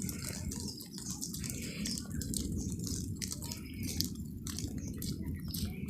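Water dripping and splashing in many short, irregular drops over a steady low rumble, as after heavy rain.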